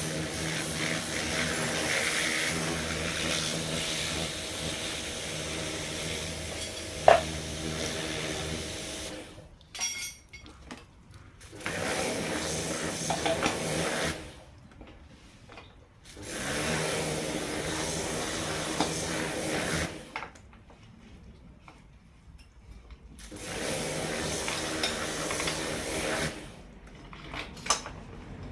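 A small electric motor hums steadily in four stretches of a few seconds each, stopping in between, with a sharp click about seven seconds in.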